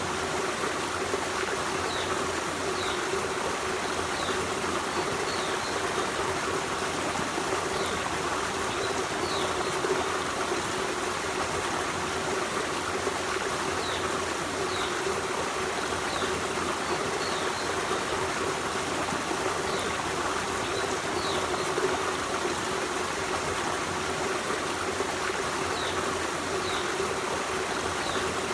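Forest stream: water running steadily over rocks in an even, continuous rush. Faint, short, high chirps come every few seconds, often in pairs.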